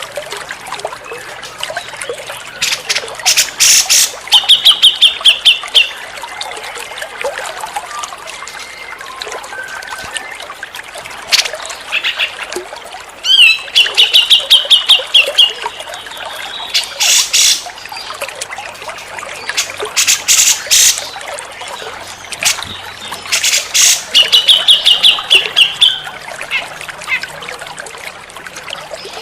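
Grey-cheeked bulbul (cucak jenggot) song: loud harsh calls and rapid trilled phrases, repeated three times, over a steady background hiss.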